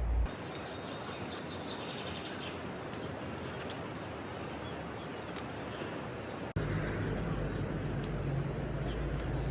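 Small birds chirping now and then over a steady outdoor background hiss. About six and a half seconds in, the background changes abruptly and a low rumble comes in.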